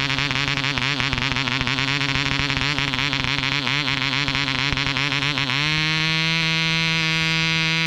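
Webra 1.5cc model airplane diesel engine running, at first unevenly with a wavering pitch, then about five and a half seconds in the pitch rises and it settles into a steady, even whine.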